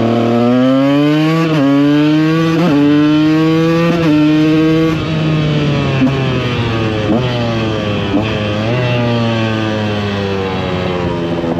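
2014 KTM EXC 125 two-stroke engine pulling hard through the gears, the pitch climbing and dropping sharply three times in the first four seconds as it upshifts. It then winds down under engine braking, with a few short blips in the middle, and pulls away again with a sharp rise near the end.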